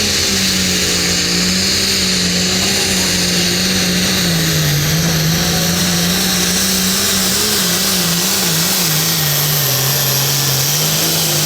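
Hot farm pulling tractor's diesel engine running flat out under load on a pull, with a steady loud note that sags a little lower about halfway through and wavers toward the end.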